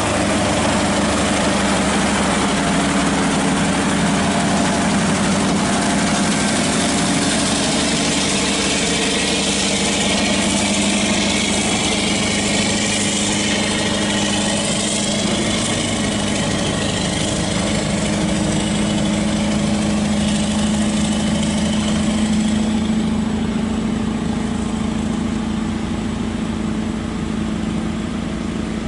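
A large engine idling steadily, with faint rising and falling whines higher up in the middle and a slight easing of level near the end.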